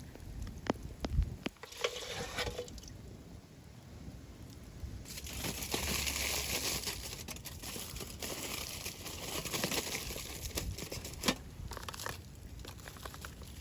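Aluminium foil being crinkled and folded by hand. A few sharp clicks come in the first two seconds, then a longer stretch of dense crinkling.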